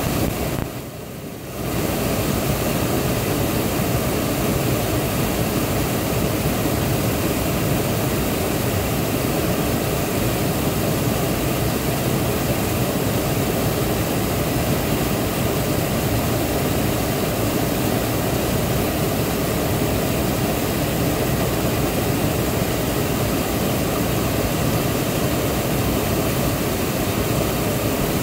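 Waterfall: a steady, heavy rush of falling water, briefly quieter in the first second or so.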